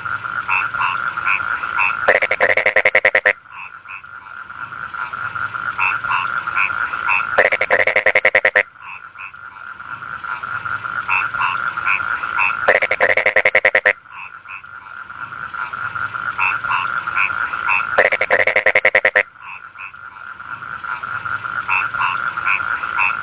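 Rice-field frogs calling: a steady chorus, broken about every five seconds by a loud burst of rapid croaks lasting about a second.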